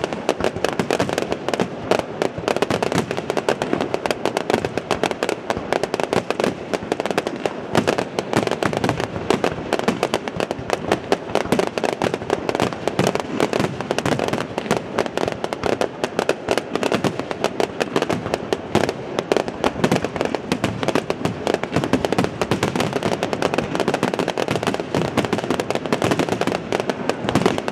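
Fireworks finale: aerial shells bursting in a dense, unbroken barrage, the bangs overlapping one another without pause.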